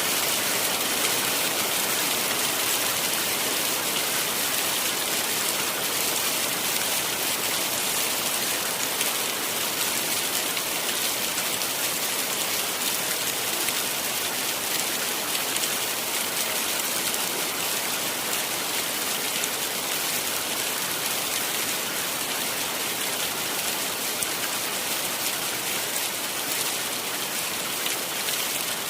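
Heavy rain falling steadily, a dense even hiss of drops with faint patter.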